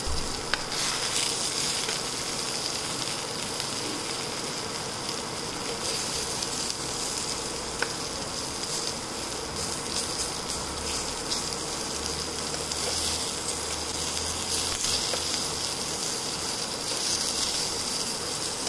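Vegetables sizzling in hot olive oil in a non-stick pan, a steady frying hiss, with a couple of light clicks from metal tongs touching the pan.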